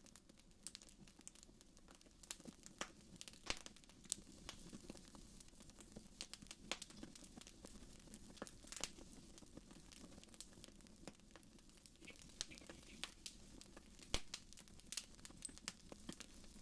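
Wood fire in a fireplace crackling softly, with irregular small pops and snaps and a couple of sharper snaps, over a faint steady low hum.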